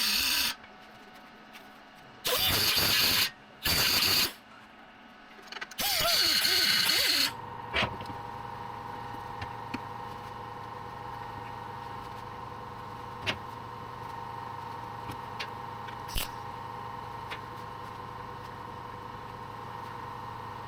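Wire-feed welder laying short tack welds: four bursts of about a second each in the first seven seconds. After that comes a steady hum with a few light clicks.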